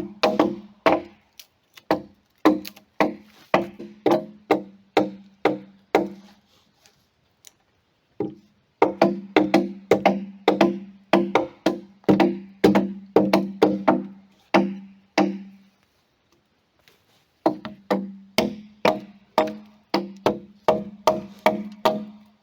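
Steady hammer blows on timber, about two to three strikes a second, in three runs with short pauses between. Each blow has a short, low ringing note.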